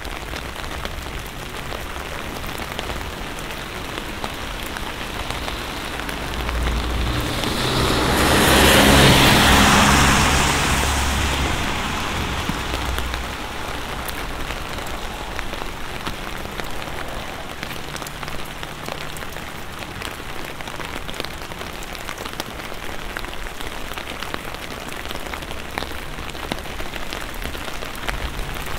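Steady rain pattering on an umbrella and the wet street, with scattered sharp drop ticks. About seven seconds in, a car passes on the wet road, its tyre hiss and engine rumble swelling and fading over about five seconds.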